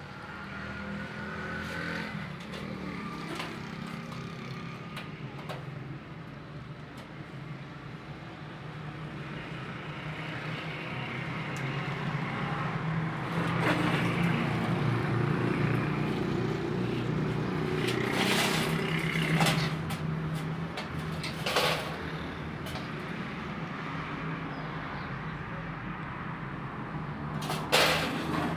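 Steady low mechanical hum that grows louder over the first half, with a few sharp knocks and clatters.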